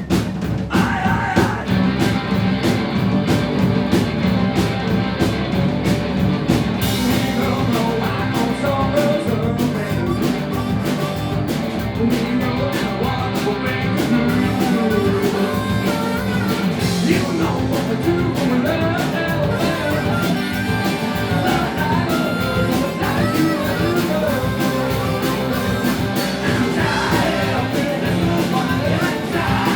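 Live rock band playing a song, a lead singer's voice over drums and band.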